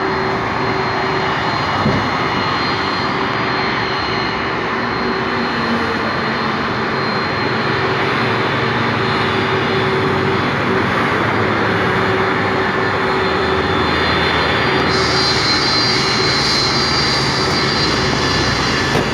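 Boeing 767 freighter's turbofan jet engines running loudly and steadily, a heavy rush with a held whine.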